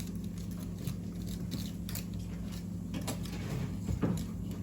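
A few light taps and scrapes from digging into a toy volcano excavation kit, over a steady low hum.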